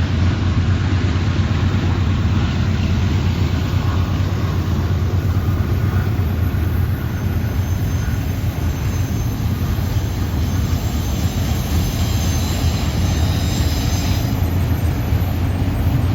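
Diesel locomotives of a train running with a steady low rumble.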